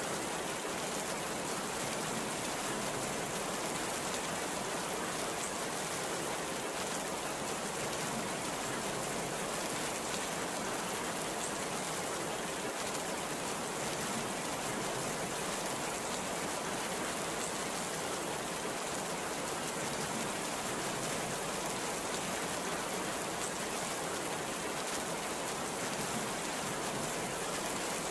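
Heavy rain pouring down in a steady, even hiss that does not change in level.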